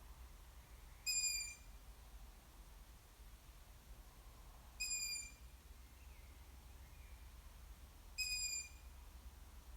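Juvenile long-eared owl giving its begging call: three short, high-pitched squeaky whistles, about three to four seconds apart, each lasting about half a second.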